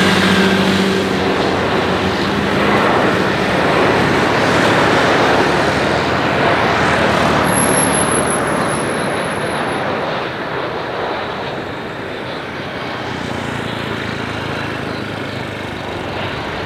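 Jet engines of an Airbus A320 with IAE V2500 engines, passing loud overhead as it lands. The rushing engine noise fades off from about two-thirds of the way in.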